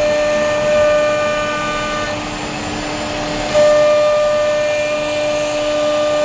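CNC router spindle running with a steady high whine while cutting wood. The whine thins out about two seconds in and returns louder about three and a half seconds in.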